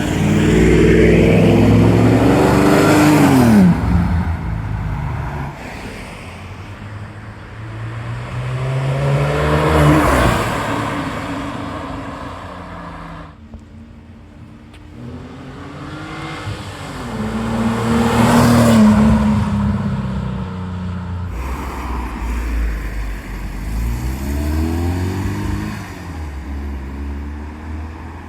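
Cars driving past one after another, engines revving and accelerating as they go by. There are four loud passes a few seconds apart, and the first ends with its engine pitch dropping sharply.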